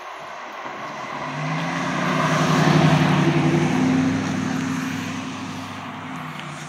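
A motor vehicle driving past: engine hum and tyre noise grow louder to a peak about three seconds in, then fade away.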